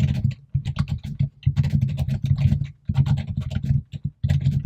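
Fast typing on a computer keyboard: clattering keystrokes in several quick runs with brief pauses between them.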